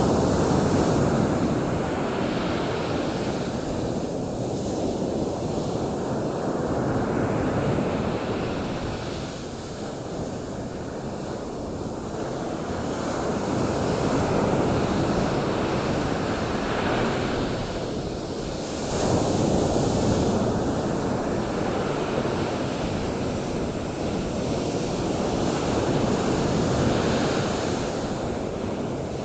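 Ocean waves washing onto a beach: a steady rushing that swells and eases every several seconds, with some wind.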